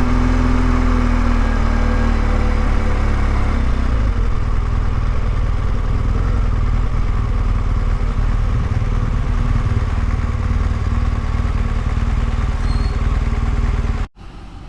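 Motorcycle running at road speed, its engine rumble mixed with steady wind noise on the helmet camera's microphone. Near the end the sound cuts off abruptly to a much quieter background.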